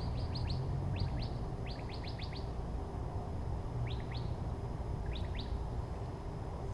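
Small bird chirping: short, quickly falling chirps in several quick runs of two to five, over a steady low hum.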